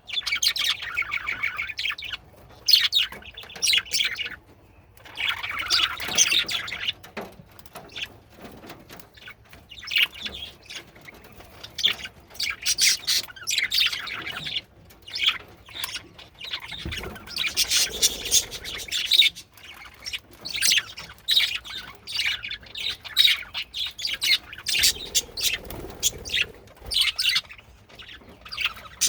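Male budgerigars chattering and warbling, a continuous run of rapid chirps and squawks with short breaks.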